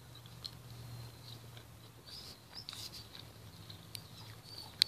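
Faint chewing of a mouthful of chili cheese fries, with small wet mouth clicks and a sharp click near the end.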